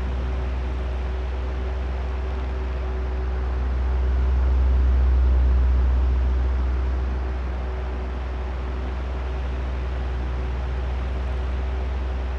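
Electric oscillating fan running: a steady rush of air with a low rumble and a faint motor hum. The drone swells about halfway through and fades again as the fan head sweeps back and forth.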